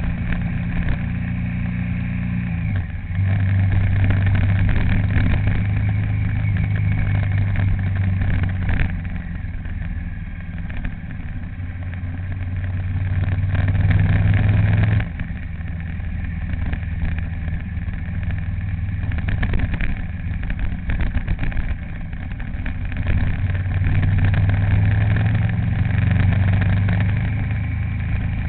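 A vehicle's engine running steadily while driving along. Its note shifts about three seconds in, falls away abruptly about halfway through, then builds up again, as with changes of gear or throttle.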